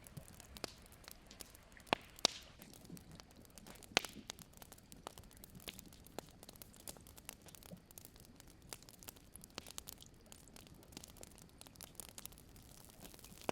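Campfire crackling: scattered sharp pops and snaps over a faint hiss, with the strongest pops about two and four seconds in.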